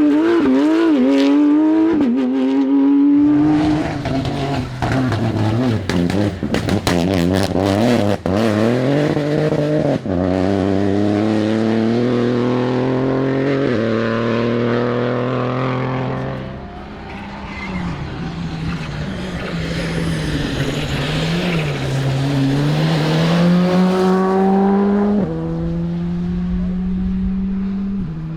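Rally car engines at full throttle, revving up and climbing through the gears with repeated upshifts. Sharp cracks and pops come through during the first third.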